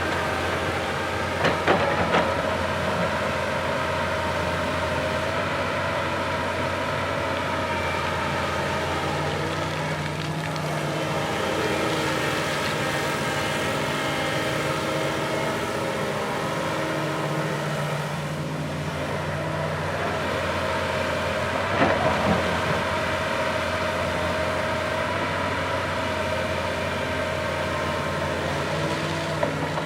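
Diesel engine of a heavy earthmoving machine running steadily under work, with a few short sharp knocks about two seconds in and again about two-thirds of the way through.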